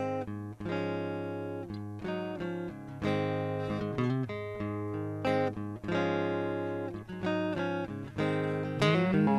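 Guitar intro of a rock song: picked notes and chords in short phrases over a held low note. Near the end a sliding note comes in and the music gets louder.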